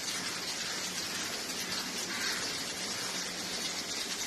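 Chicken pieces frying with freshly added spice powders, a steady sizzle on low heat.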